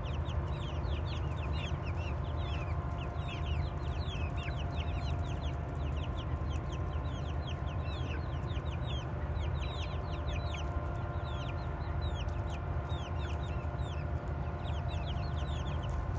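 A flock of chickens clucking and chirping, with a steady run of short, high chirps that fall in pitch, several a second, over a low rumble.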